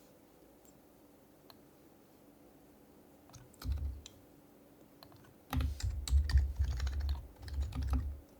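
Typing on an HHKB Professional HYBRID Type-S keyboard with Topre capacitive switches: a short flurry of keystrokes about three and a half seconds in, then a longer quick run of keystrokes from a little past halfway to near the end.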